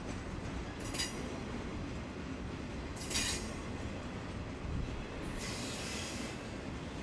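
Norfolk Southern Triple Crown RoadRailer train rolling past with a steady low rumble. Its wheels let out three high-pitched squeals: a short one about a second in, a louder one around three seconds, and a longer, fainter one near the end.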